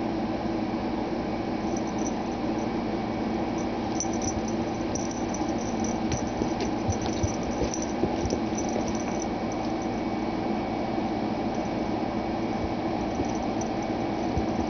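Steady background hum with faint, scattered light taps and scuffs of a cat's paws as it runs and pounces.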